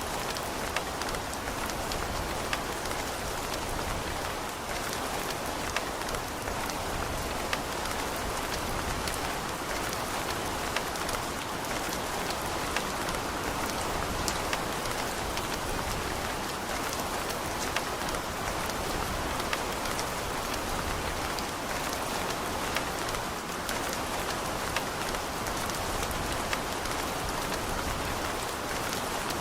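Steady rain: an even hiss with many sharp, separate drop ticks scattered through it.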